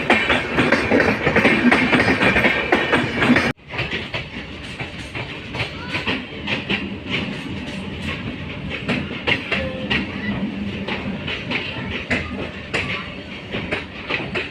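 Indian passenger train running, a dense rattling noise with many sharp clicks. The sound cuts abruptly about three and a half seconds in to a quieter stretch of the same running with irregular clicks.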